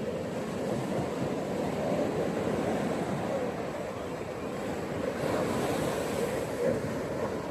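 Gentle ocean surf washing onto a beach: a steady rush of water that swells and eases, with a brighter, hissier surge about five seconds in as a wave washes in.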